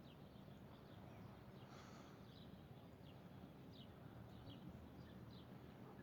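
Near silence with faint, scattered bird chirps, short and falling in pitch, over a low steady background hum.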